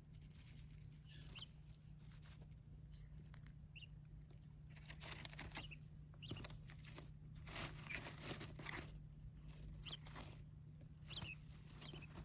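Small birds scratching and rustling in loose rice-husk bedding, a busy patch of it in the middle, with a few short high peeps. All of it is faint.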